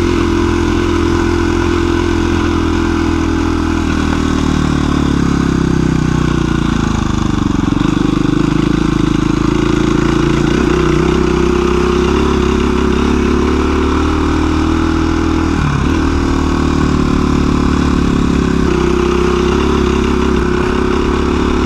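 2017 KTM 350 EXC-F's single-cylinder four-stroke engine running at a steady, easy pace while the bike is ridden, its pitch dipping and rising gently a few times.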